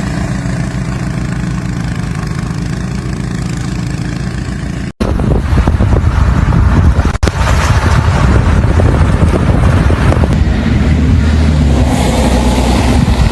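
Vehicle engine noise across spliced clips. First a steady engine hum, then after cuts about five and seven seconds in, a louder, rougher rumble.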